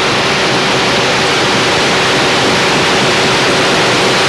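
Steady, loud hiss of an old film soundtrack, with a faint steady hum tone underneath and no other sound.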